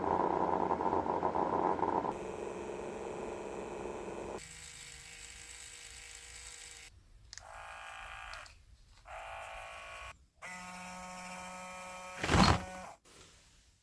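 Small battery-powered electric motors running in a string of short takes, each a steady whine that starts and cuts off abruptly. A brief loud thud comes near the end.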